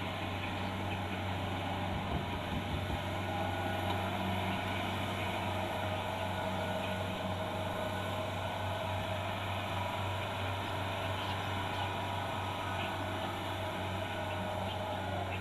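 Kubota DC-70 Plus combine harvester running steadily under load with a constant low diesel drone and the rushing clatter of its threshing works.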